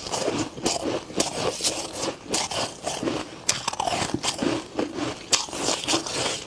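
A person biting and chewing freezer frost: a quick, irregular run of crisp crunches.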